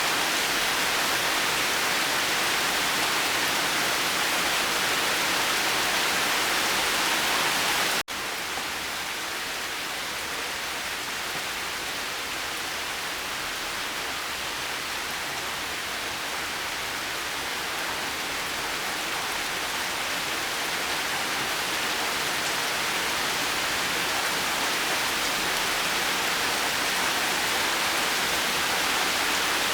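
Steady rain falling as a continuous even hiss. About eight seconds in the sound cuts out for an instant at a splice, then comes back a little softer and slowly builds up again.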